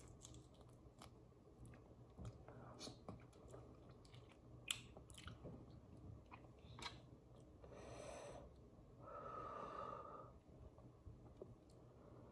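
Faint, close-miked chewing and mouth sounds as seafood-boil shrimp is eaten, with small clicks and crackles of shells being peeled by hand. Two brief, louder muffled sounds come about two-thirds of the way through.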